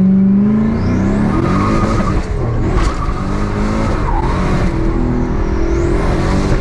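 Big-turbo Chevrolet Camaro accelerating hard through the gears of its six-speed manual. The engine pitch climbs and drops with each shift while the turbo whistles, rising as it spools, twice.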